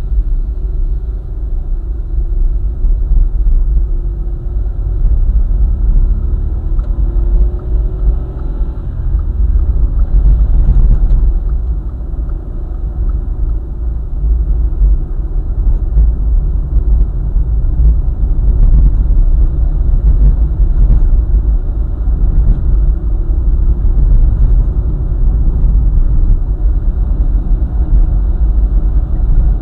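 Car driving along a highway: a steady low rumble of road and engine noise. A faint engine tone shifts in pitch a few seconds in.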